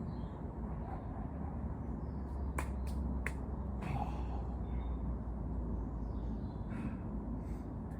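Three sharp snaps in quick succession, about two and a half to three and a half seconds in, as someone climbs a tree. Under them runs a steady low rumble.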